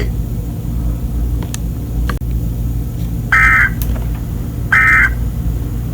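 Emergency Alert System SAME header: two short bursts of buzzy digital data tones about a second and a half apart, starting about three seconds in, over a steady low hum of radio background noise. They mark the start of a new alert message.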